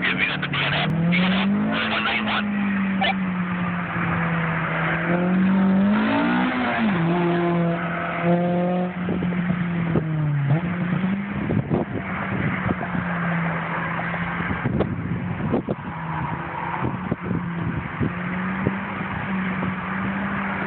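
A sports car's engine revving through an autocross course of cones, its pitch rising and falling as the driver accelerates and brakes between the cones. There is some tire squeal in the corners.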